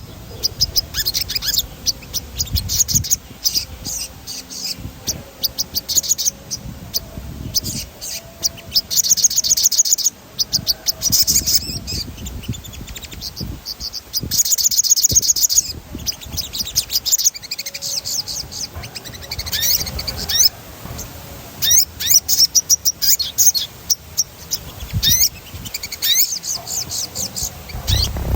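Sogon songbird singing in rapid rolling trills: bursts of fast, high repeated notes broken by short pauses, with a low rumble underneath.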